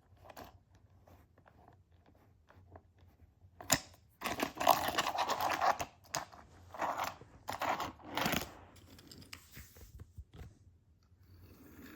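Crinkling and rustling of something being handled, in several bursts. The longest comes about four seconds in and lasts a couple of seconds, with shorter ones near seven and eight seconds.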